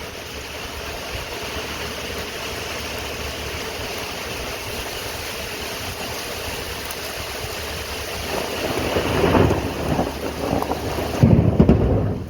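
Steady rain with thunder: a rolling rumble builds about two-thirds of the way through and is loudest just before the end.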